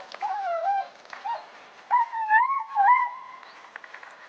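Skijoring dogs whining excitedly in high, wavering cries: a short cry at the start and a longer one about two seconds in.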